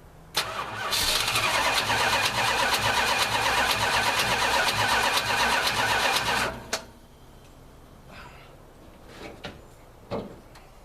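The starter cranks the 1968 Plymouth Fury's 383 big-block V8 for about six seconds on a cold start after years out of use, with a click as it engages, then stops suddenly. A few faint knocks follow near the end.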